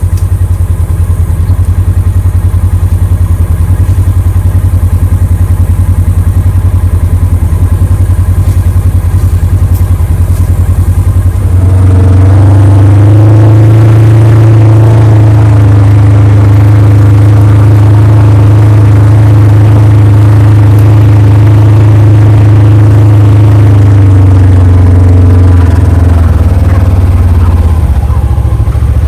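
A motor vehicle's engine runs steadily. About a third of the way in it revs up to a higher, louder pitch, which it holds, then it eases off again near the end.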